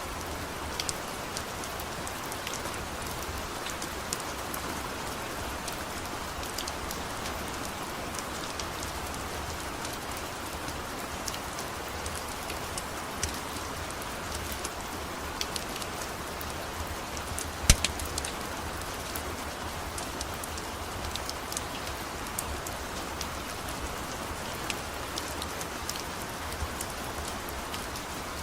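Steady rain hiss with a wood fire crackling: scattered sharp pops over the even rain, one louder pop about two-thirds of the way through.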